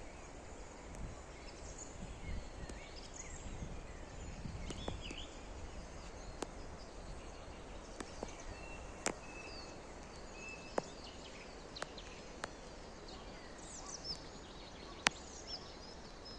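Small birds chirping and calling against a steady low outdoor rumble, with scattered sharp clicks every second or two.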